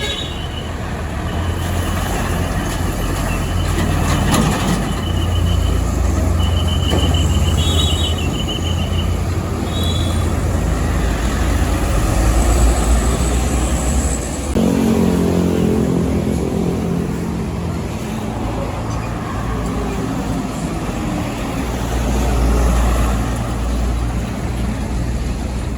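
Heavy diesel trucks passing close by on a road, their engines rumbling. About halfway through, a truck passes with a strong engine note that drops in pitch as it goes by.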